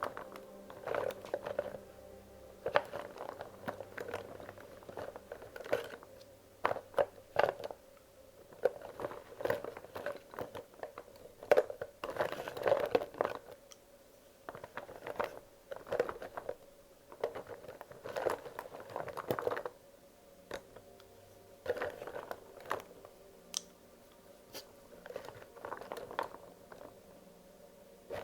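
Wax crayons being handled and sorted by hand: irregular light clicks and clatters as crayons knock against each other, with bits of rustling in between.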